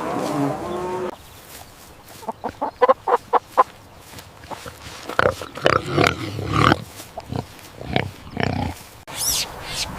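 Pigs grunting in quick runs of short grunts, with a louder cluster of longer calls in the middle. Before them, a steady humming sound stops about a second in.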